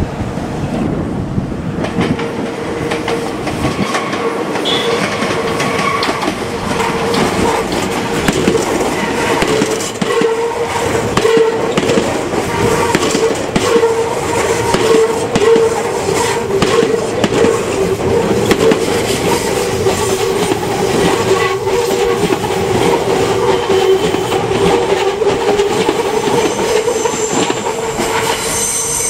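Meitetsu electric train running past, with wheels clicking over rail joints and a steady pitched whine that holds for most of the passage.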